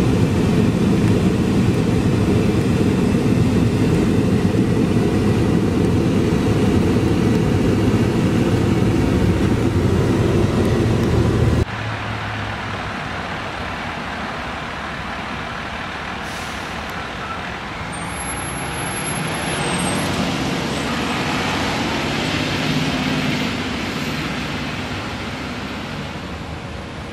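Fire truck diesel engine running loud and steady, cut off abruptly about twelve seconds in. Quieter engine and road noise follows and swells toward the end.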